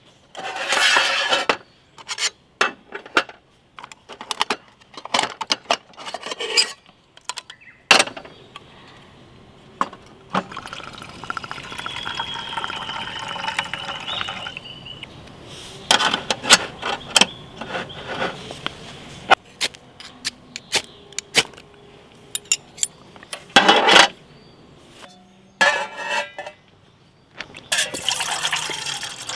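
Camp coffee being made: clinks and clatters of metal cookware, and water being poured into a cup for several seconds, the pitch rising as it fills.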